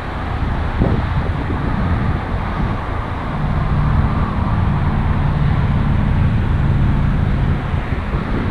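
Steady vehicle and traffic rumble with wind on the microphone. A low engine hum swells about three seconds in and fades out near the end.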